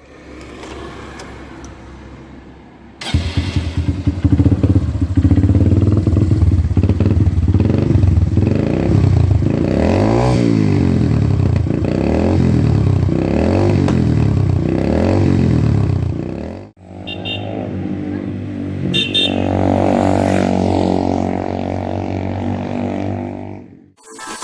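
Motorcycle engine running through a newly fitted SC Project aftermarket silencer, blipped repeatedly so the pitch rises and falls about once a second. After a break about 17 seconds in it runs more steadily, with one more rev.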